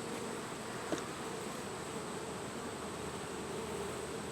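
Honey bees buzzing in a steady, even hum around an opened hive during a frame inspection, with one light click about a second in.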